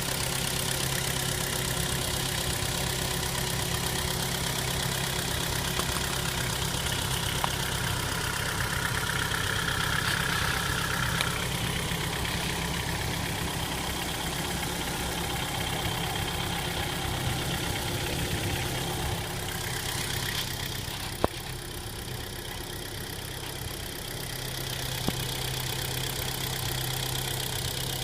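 Engine idling steadily while still cold, shortly after a cold start. A single sharp click is heard about three-quarters of the way through.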